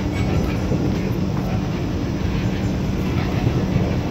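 Steady running rumble of a Vande Bharat Express train at speed, heard from inside the coach, with a low steady hum beneath the wheel-and-track noise.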